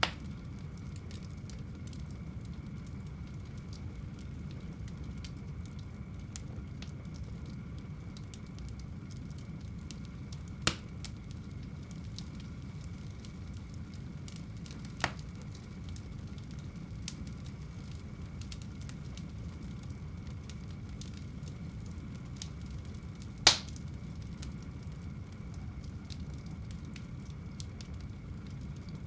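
Wood fire burning in a home fireplace: a steady low rumble of flames with faint crackling, and a few sharp pops of burning wood, the loudest about three quarters of the way through.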